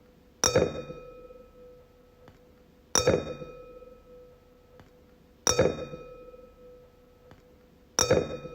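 A wine glass struck four times, about every two and a half seconds, each strike a clear ringing tone that fades over a second or two.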